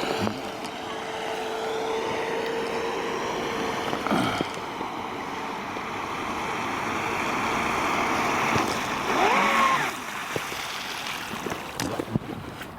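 Traxxas Spartan RC speedboat's brushless electric motor running with a steady whine, with water rushing and wind noise. Near the end, a few brief rising and falling tones sound over it.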